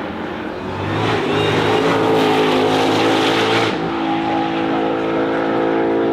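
A car engine running hard at high revs. About three and a half seconds in, the hissing top of the sound cuts off suddenly and the engine carries on at a slightly different pitch.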